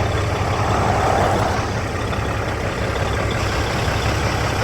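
Heavy truck engine running steadily, a low pulsing rumble under road and traffic noise.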